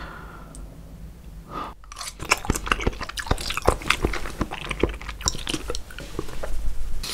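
Close-miked chewing of raw salmon, with wet, irregular clicks and smacks of the mouth. It is sparse for the first two seconds and then comes thick and fast.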